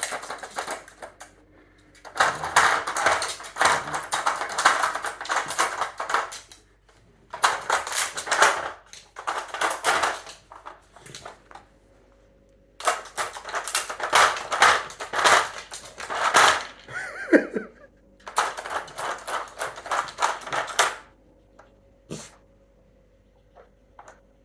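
A dog nosing and pawing at a plastic treat-puzzle toy: the pieces clatter and rattle in runs of a few seconds with short pauses, and a brief falling squeak comes about seventeen seconds in.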